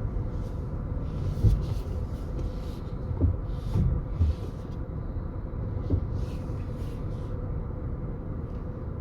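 Low, steady rumble inside a car cabin as the car is manoeuvred into a parking space, with a few dull thumps.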